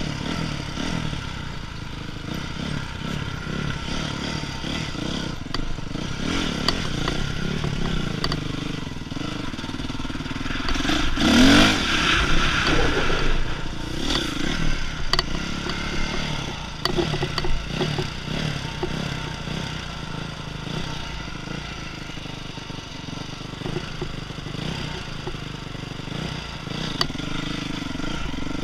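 Dirt bike engine running while being ridden on a trail, its pitch rising and falling with the throttle, with its loudest rev about eleven seconds in.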